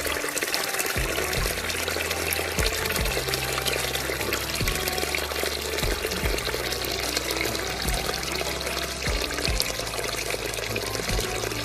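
Water running and splashing steadily, with music underneath.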